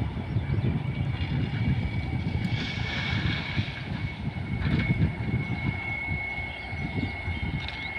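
Train hauled by an electric locomotive rumbling past at speed, with an uneven low rumble and a steady high whine, and a brief rush of hiss about three seconds in.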